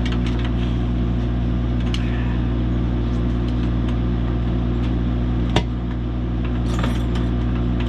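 An engine idles steadily. Scattered light metallic clicks and one sharp knock about five and a half seconds in sound over it.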